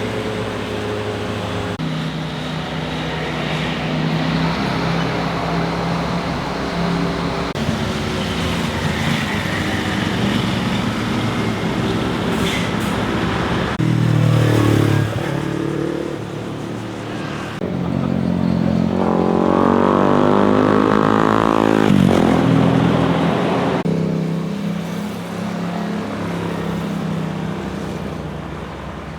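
Motorcycle engines passing one after another, revving up and down through the gears. The loudest pass comes about two-thirds of the way through, its pitch sweeping up as the bike accelerates by.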